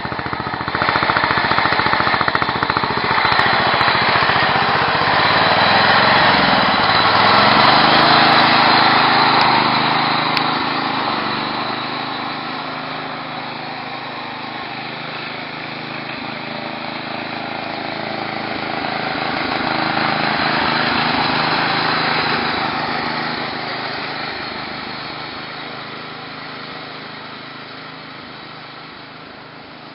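Racing tractor's small engine running at speed. It swells louder twice, with a shift in pitch about seven seconds in, and fades away near the end.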